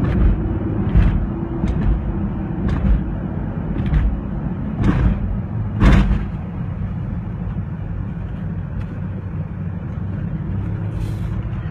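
TRD-supercharged Toyota V8 truck engine running steadily at a light cruise, heard from inside the cab, with a few short knocks and rustles.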